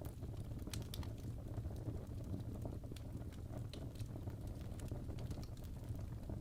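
Fireplace crackling: irregular small pops and snaps over a steady low rumble of the fire.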